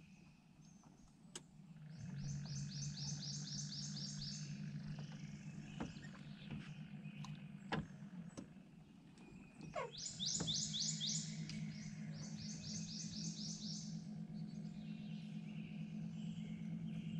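A songbird's fast, high trill of rapid repeated notes, sung several times, over a steady low motor hum that comes in about two seconds in. A few faint clicks are scattered through.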